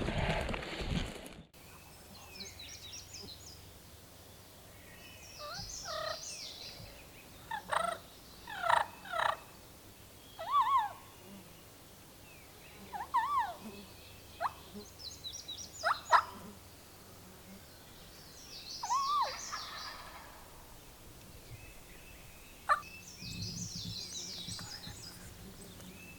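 Wild turkey gobblers gobbling again and again, with songbirds chirping in the background. A burst of noise in the first second and a half cuts off suddenly.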